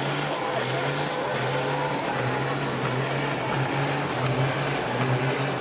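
Steady low hum of idling diesel semi-truck engines over a constant background hiss, with no revving.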